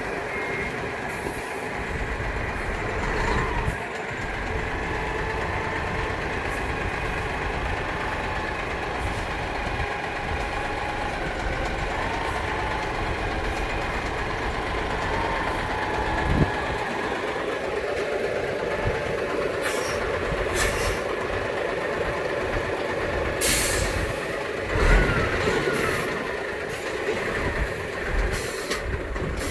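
Heavy truck engine running steadily while manoeuvring, with a reversing beeper sounding briefly at the start and a few short air hisses later on.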